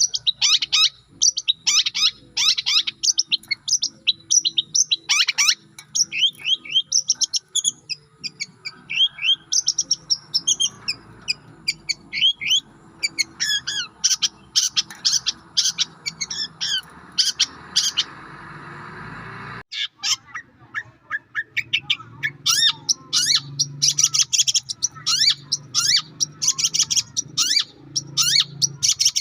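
Long-tailed shrike (cendet) song: a fast, busy run of sharp high chirps and trills, broken off by a sudden short gap about two-thirds of the way in before the chirping resumes. A faint low hum runs underneath.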